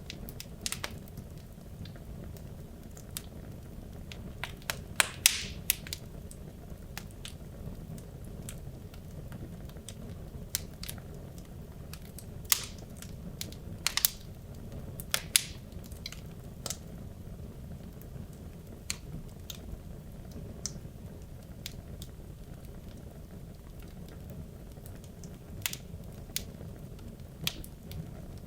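Wood logs burning in a fireplace: a steady low rumble of the flames with irregular sharp crackles and pops, a few louder pops standing out.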